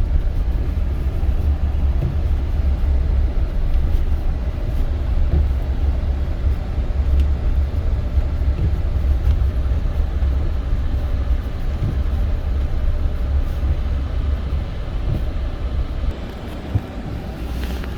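Toyota Tundra pickup driving along a snowy road, heard from inside the cab: a steady low rumble of engine and tyres, easing slightly near the end.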